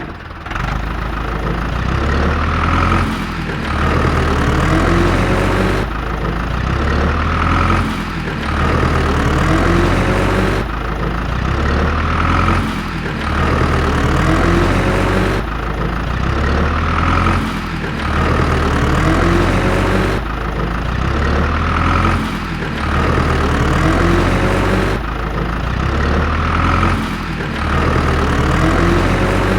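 A looped truck engine sound effect running steadily, the same stretch repeating about every four and a half seconds.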